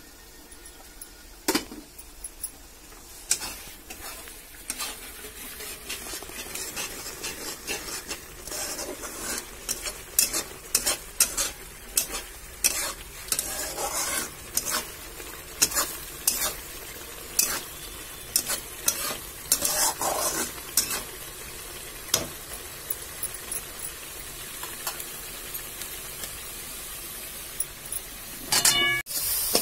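Onion masala sizzling in hot oil in an iron kadai, stirred with a metal spatula that scrapes and knocks against the pan many times. The masala is browning, with the chicken still to be added.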